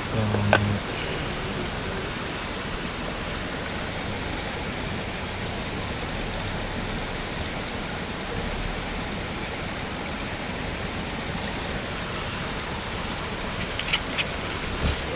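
Steady rain, an even hiss throughout, with a few sharp clicks near the end.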